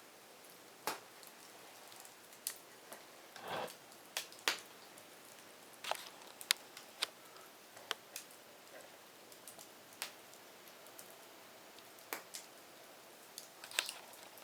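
Wood fire crackling: irregular sharp pops and snaps over a faint steady hiss, with a brief cluster of crackles about three and a half seconds in.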